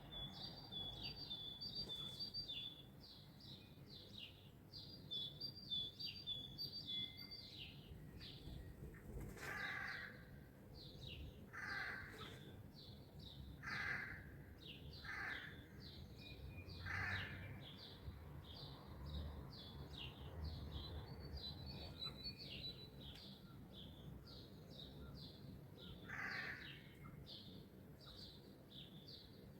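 Songbird dawn chorus: many birds chirping and singing, with a quick repeated high song phrase in the first seconds. A louder, lower call from another bird sounds five times in the middle and once more near the end.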